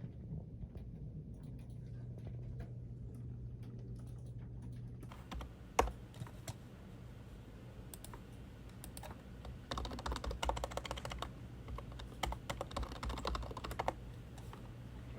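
Typing on a computer keyboard: scattered key clicks, then rapid bursts of typing in the second half, over a steady low hum.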